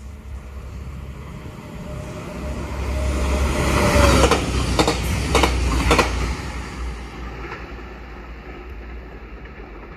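Passenger train, an IC3 diesel multiple unit, passing through a station at speed. A low rumble builds to a peak; a steady tone drops in pitch as the train goes by, with four sharp wheel clacks over rail joints, then the sound fades.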